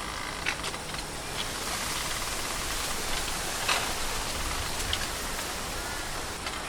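Steady outdoor ambient hiss, like wind through leaves or light rain, with a few faint short ticks scattered through it.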